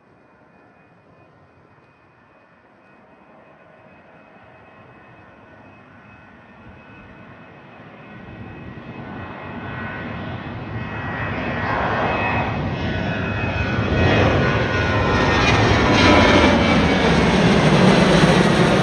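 Boeing 737 jet climbing out on departure toward and over the listener, its engine noise growing steadily louder from faint to loud, with a thin whine on top, loudest near the end.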